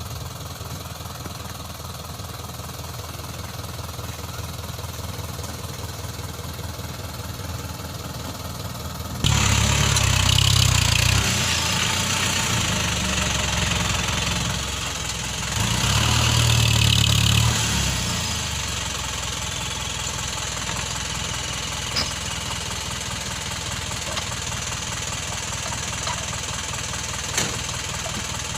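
Isuzu Elf dump truck's diesel engine idling with a knocking clatter, then suddenly louder about nine seconds in and revved up twice for a few seconds each before settling back to idle. A couple of short sharp clicks near the end.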